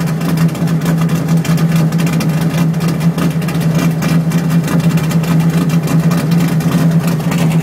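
Chevrolet Camaro Z28's V8 engine running, heard from inside the car's cabin as a steady low drone with road and wind noise.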